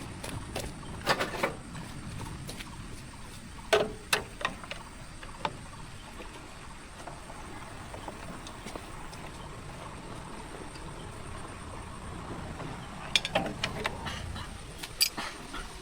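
Occasional sharp knocks and clicks in small clusters over a steady low rumble, the kind made by tools and metal parts being handled.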